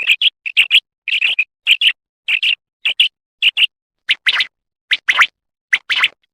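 Common quail calling: a quick series of short, bright chirping calls, nearly two a second, with the last few lower and fuller.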